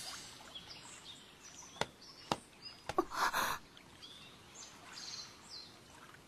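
Quiet outdoor ambience of small birds chirping now and then, with a few soft, sharp ticks around the middle, as the tail of the music fades out at the start.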